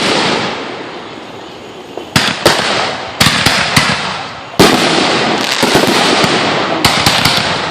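Fireworks going off: a run of sharp bangs, two close together about two seconds in, more a second later, and a louder one about halfway that sets off a long stretch of dense crackling, with another bang near the end.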